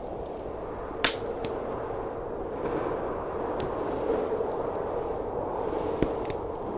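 Wood fire crackling, with sharp pops and snaps, the loudest about a second in, over a steady wind noise of a snowstorm.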